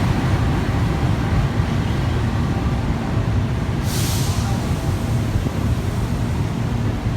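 Train running with a steady low rumble, and a short hiss of air about four seconds in.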